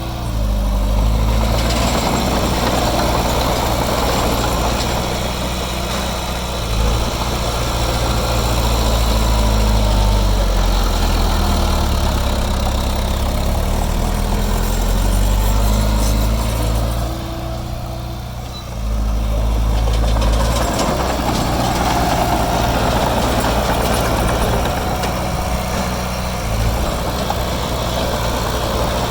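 Heavy construction machine's diesel engine running steadily, easing off briefly about two-thirds of the way through and then picking back up.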